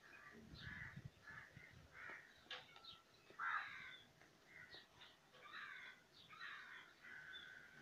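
Faint bird calls: a string of short calls coming roughly once a second, the loudest a little before the middle.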